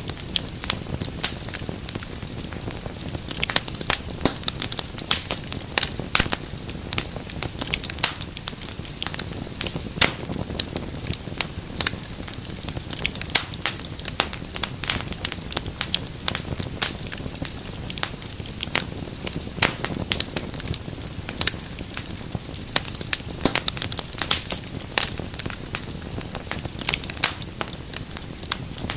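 Wood fire crackling steadily: many quick, irregular sharp pops over a low, even rumble of the flames.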